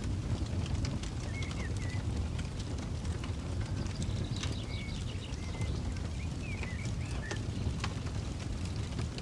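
Campfire crackling with scattered sharp pops over a low steady rumble, while a songbird calls several short whistled chirps.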